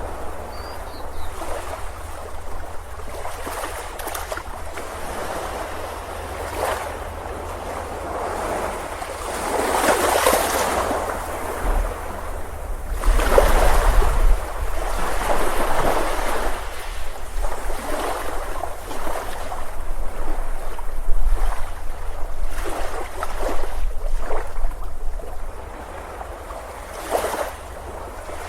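Ocean surf breaking and washing on a beach, rising and falling in loudness, over a steady low rumble.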